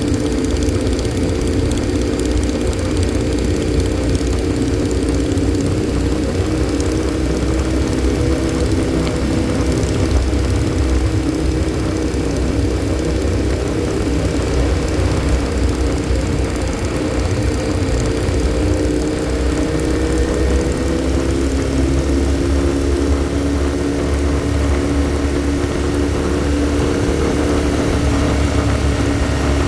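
Motorcycle engine running steadily at cruising speed, heard from the rider's seat over a low rush of wind. The engine note drops slightly about twenty seconds in.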